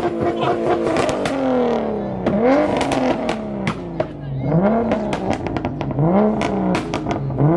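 Car engine revved in about five quick blips, each rising sharply in pitch and falling back toward idle, with sharp pops and crackles between the revs.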